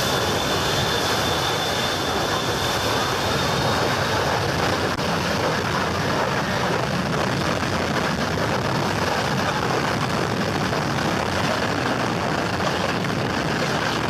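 Jet airliner's engines at takeoff thrust, blasting across the beach behind the runway end: a loud, steady roar, with a thin high whine over it for the first few seconds.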